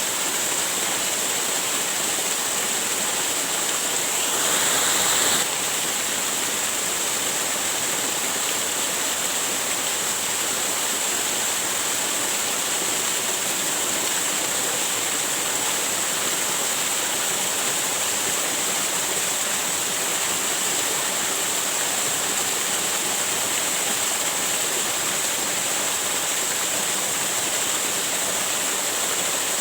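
Waterfall rushing steadily as a continuous hiss of falling water. About four seconds in the sound swells a little louder for about a second, then drops back suddenly.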